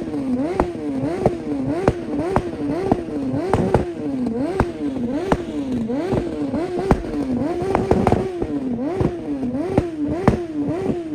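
Car engine held on a two-step launch limiter, its revs rising and falling in a steady rhythm about one and a half times a second, with a sharp pop from the exhaust at the top of each cycle.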